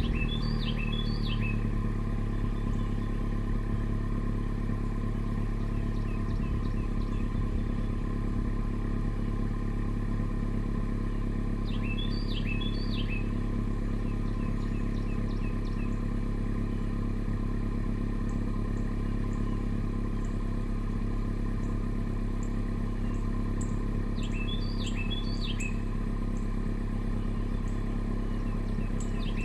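Honda Civic Si's 1.5-litre turbo four-cylinder idling after a cold start through a catless downpipe and front pipe with the stock resonator and mufflers. The idle eases down slightly in the first second or two, then holds steady. A bird chirps a short phrase three times, about twelve seconds apart.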